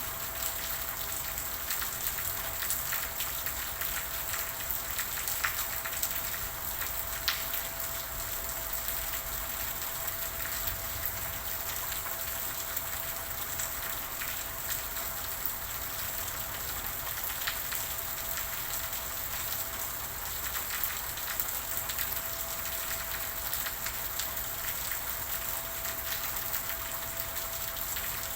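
Steady rain falling, an even hiss dotted with the sharp ticks of individual drops landing close by.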